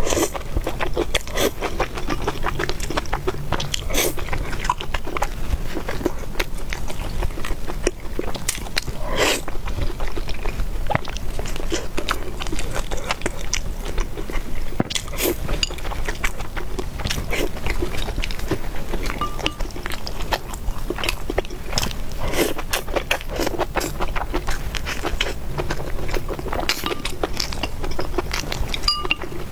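Close-miked eating: steady chewing and biting with many quick wet mouth clicks and smacks, as of noodles and meatballs being eaten.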